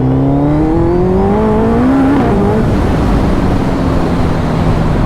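Sport motorcycle engine accelerating under the rider, its pitch rising for about two seconds, then dropping at a gear change before it runs on with rushing wind noise.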